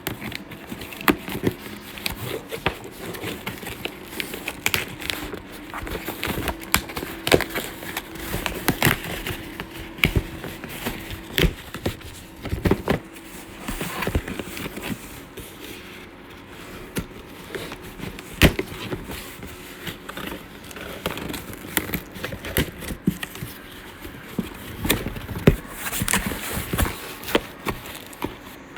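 Irregular clicks, knocks and crinkling.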